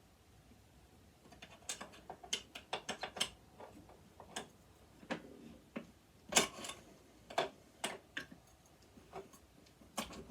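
A metal tool clicking and scraping against a stuck screw in a sewing machine as it is forced. Irregular sharp clicks start about a second in, come in a quick run, then turn scattered. The tool is slipping in the screw head and chipping the screw.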